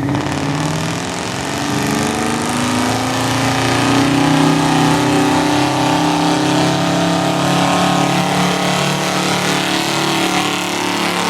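1975 International Harvester pickup's gas engine running at high revs under heavy load as it pulls the sled in a truck pull. The pitch climbs over the first few seconds, then holds steady.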